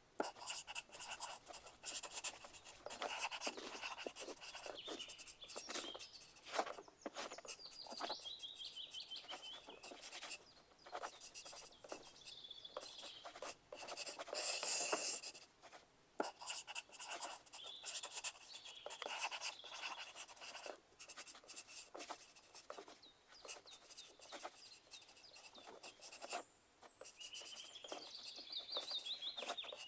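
Pencils scratching on paper in quick, irregular strokes, the writing of exam takers, coming in clusters with short pauses. A few brief high chirping tones sound now and then.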